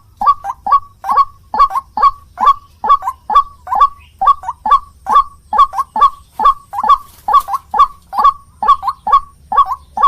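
White-breasted waterhen calling over and over: a short, harsh note about two to three times a second, often in quick pairs, in a steady unbroken run.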